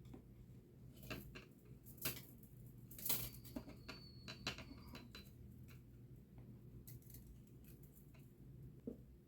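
Faint clicks and snips of small metal parts being worked by hand while a titanium stove frame is built, with sharper clicks about one, two and three seconds in and a brief high metallic ring just after.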